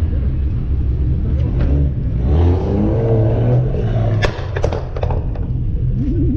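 Low steady rumble of idling car engines, with a few sharp knocks about four to five seconds in.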